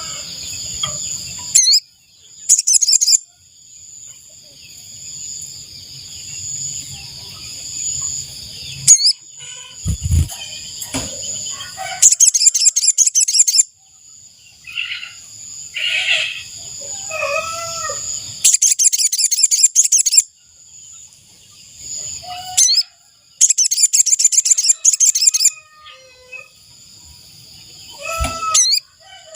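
Sogon (sogok ontong) bird, a little spiderhunter, calling in bursts of rapid high-pitched trills, four bursts of one to two seconds each, over a steady high ringing hum. Lower, bending calls come in the middle, and there are two dull thumps.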